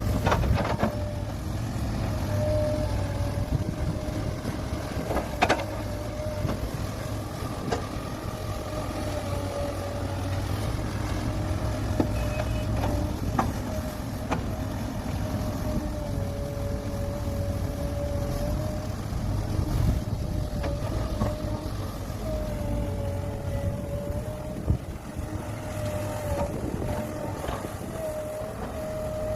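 Caterpillar 6015B hydraulic mining excavator at work: a steady heavy diesel rumble with a slightly wavering whine over it, and a few sharp knocks along the way.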